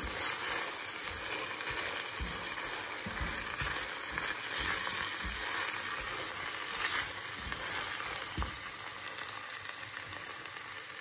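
Onions and curry paste sizzling in hot oil in a stainless steel pan as a spoon stirs them, with a few soft knocks of the spoon against the pan.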